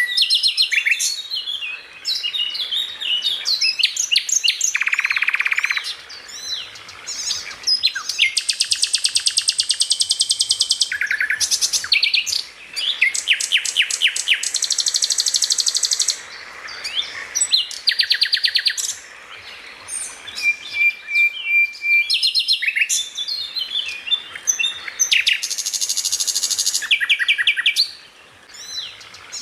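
Greater green leafbird (cucak ijo) singing its rapid-fire 'tembakan' song without a break: fast runs of repeated sharp notes, buzzy rattling trills a second or two long, and quick chirps, with a short level whistle about twenty seconds in.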